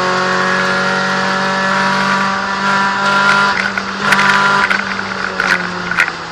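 VW Golf II 16V's four-cylinder engine heard from inside the cabin, pulling at steady revs, then easing off a little about two and a half seconds in and varying. A few sharp knocks come in the second half.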